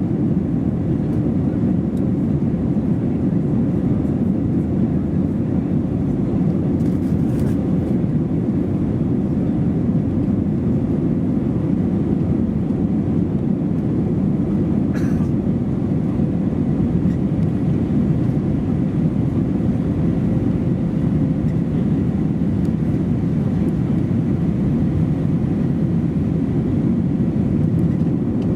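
Steady, loud cabin rumble of an Airbus A320-232 in flight, its IAE V2500 engines and the airflow heard from inside the passenger cabin, with a faint steady hum running through it.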